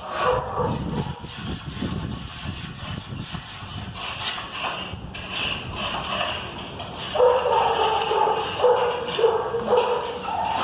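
A run of short, loud pitched calls from an animal, repeating about every half second from about two-thirds of the way in. Before that there are low knocks and shuffling.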